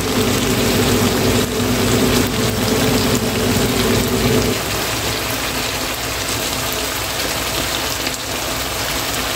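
Pinakbet vegetables and meat sizzling and simmering in a frying pan on the stove, a steady crackling hiss. A low steady hum underneath stops about halfway through.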